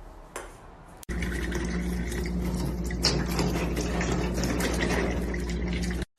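Water running, starting abruptly about a second in over a steady low hum.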